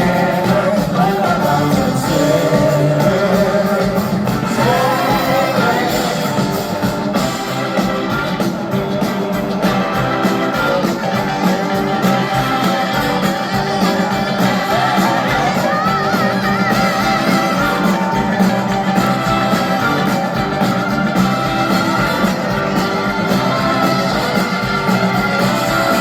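Live rock band playing at full volume, with a lead line bending and wavering in pitch over the band.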